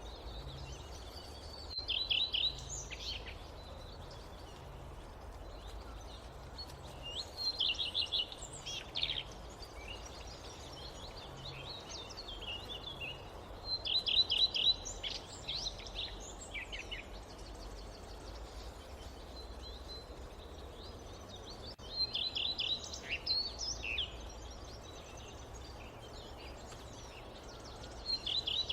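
A songbird repeating the same short song about every six seconds: a quick run of trilled notes followed by a few falling notes, each phrase lasting about a second. Underneath lies a steady low background hiss of the forest.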